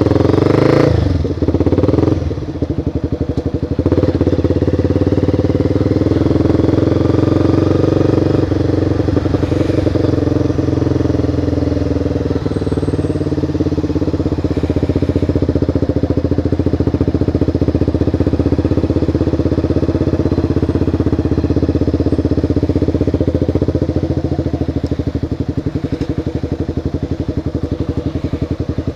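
Motorcycle engine running under way, louder for the first second or so with a brief dip, then steady.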